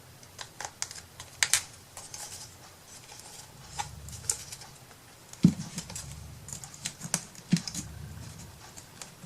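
Scattered light clicks and taps of small wooden and paper craft pieces being handled on a work table, with a couple of heavier knocks about five and a half and seven and a half seconds in.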